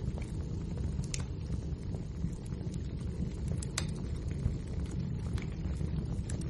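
Wood fire burning: a steady low rumble of flames with scattered sharp crackles and pops from the logs.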